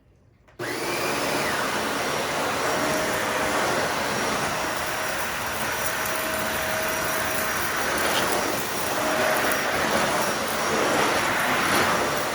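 Dyson vacuum cleaner switched on about half a second in, its motor winding up with a short rising whine, then running steadily while sucking up fine dust from a hard floor with the brush roll off.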